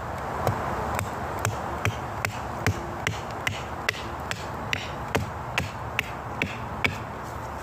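A hand tool striking wood in a steady rhythm, about two to three sharp knocks a second, over a constant background hiss.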